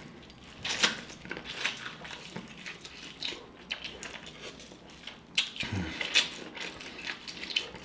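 Bites and chewing of seasoned corn on the cob: irregular wet mouth clicks and crunches of kernels.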